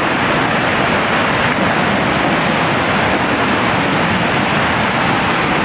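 Storm floodwater rushing loudly and steadily, a continuous roar of fast-moving water.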